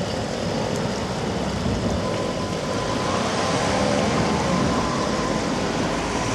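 Narrow-gauge steam train running, a steady rumble with a faint held tone through the middle.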